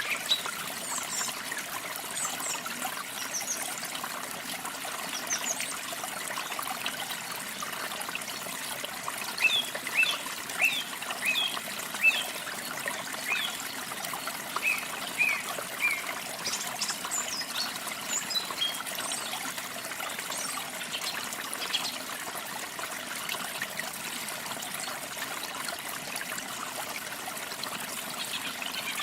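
Water trickling steadily, with small birds chirping over it in short bursts of quick high notes, busiest in the first few seconds and through the middle.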